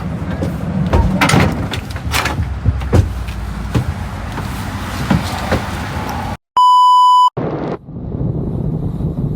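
Low rumbling noise with scattered knocks and clicks, broken about six and a half seconds in by a sudden dead gap and a loud, steady electronic beep tone lasting under a second, after which the rumbling resumes.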